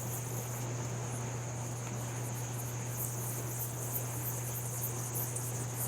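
Steady high-pitched insect trill over the even rush of a flowing river.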